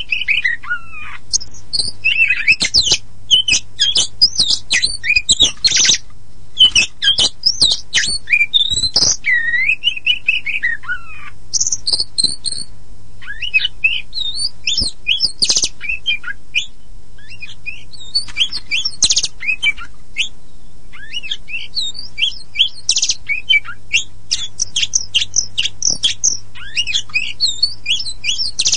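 Oriental magpie-robin of the pied 'kacer poci' form singing a fast, varied song of whistles, slurred glides, trills and sharp clicky notes, with a faint steady low hum beneath.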